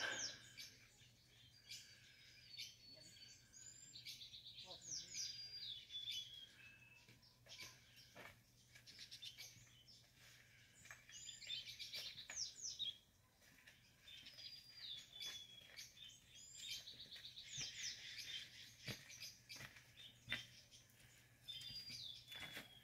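Faint songbird singing: repeated short phrases of high whistles, downward glides and quick trills, a few seconds apart, over a faint low steady hum.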